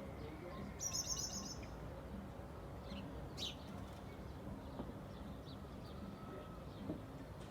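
Small songbirds chirping, with a loud, rapid run of high notes about a second in and a single sharp chirp a couple of seconds later, over a steady low background rumble.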